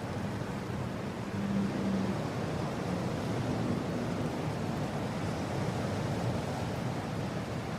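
Steady mountain wind blowing, an even rushing noise with a faint low moan coming and going, briefly stronger about a second and a half in.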